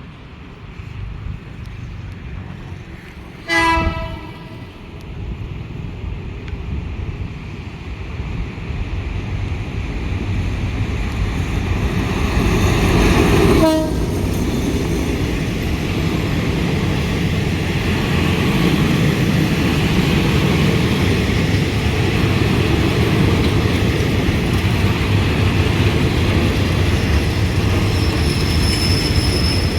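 Train horn giving a short toot about three and a half seconds in, then a longer blast that swells and cuts off around fourteen seconds, over the running noise of the train, which grows steadily louder.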